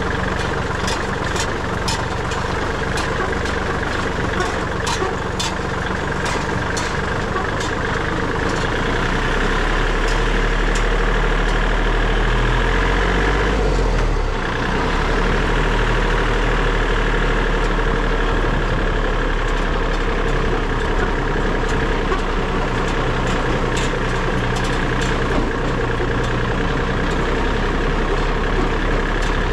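Tractor engine running steadily. It gets louder about nine seconds in and dips briefly near fourteen seconds, with light rattling clicks through the first half.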